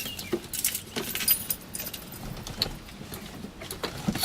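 Car keys jangling and clicking in hand, with scattered small knocks, as the key is brought to the ignition just before a start.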